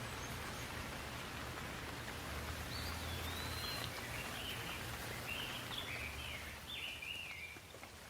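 Steady rain falling, with a bird calling a quick series of short high chirps through the middle. The rain noise drops slightly near the end.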